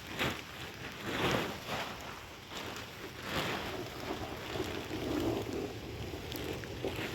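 Wind gusting across the microphone: irregular swells of rushing noise, strongest about a second in and again after about three seconds.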